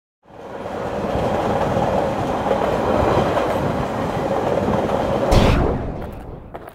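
Train running on rails: a steady rumble and clatter of wheels starting just after the beginning, with a brief louder surge about five seconds in, then fading out near the end.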